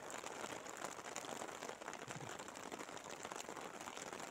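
Steady light rain pattering: a dense run of small drop ticks over a soft hiss.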